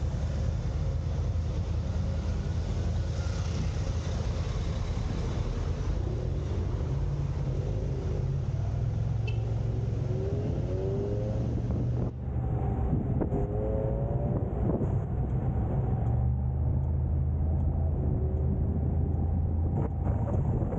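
Car driving in city traffic: a steady low rumble of engine and road noise, with engine notes rising in pitch several times in the second half, as when accelerating.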